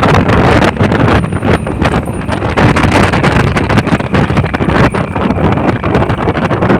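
Loud, gusty wind buffeting the microphone on a moving motorcycle, with the motorcycle's running noise underneath.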